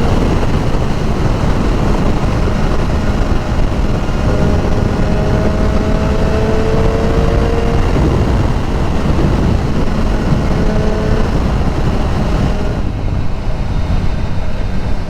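BMW S1000R's inline-four engine running at road speed under heavy wind and road rush. Its note rises gently a few seconds in and again around the middle.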